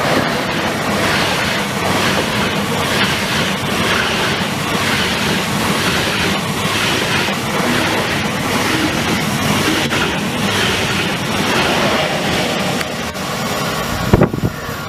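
Train running at speed: a loud, steady rush of rail and wheel noise with a regular pulsing in the hiss. A few sharp knocks come near the end.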